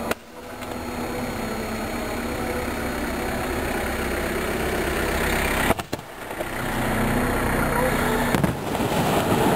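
A fireworks display going off, a dense wash of noise with people's voices over it. The sound drops out briefly about six seconds in.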